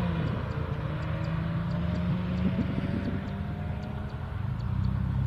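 Honda Legend Coupe's 3.2-litre V6 accelerating hard away, its engine note climbing steadily in pitch and growing fainter over the first few seconds, over a steady low rumble.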